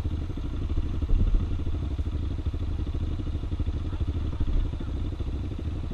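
Single-cylinder four-stroke trail motorcycle engine running steadily at low revs, close by.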